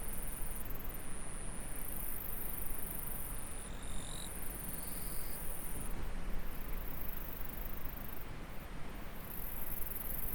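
Insects trilling in a continuous high-pitched chorus, one steady trill broken by short gaps about once a second, over the even rush of a flowing stream. A few brief, higher chirps come about four to five seconds in.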